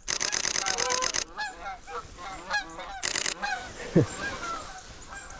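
A flock of Canada geese honking over and over. Two rapid bursts of a DSLR camera's shutter firing at about ten frames a second, the first for about a second at the start and a shorter one about three seconds in.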